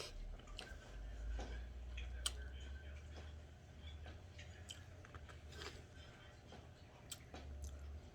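A person chewing food quietly, with soft mouth sounds and scattered small clicks, over a low steady hum.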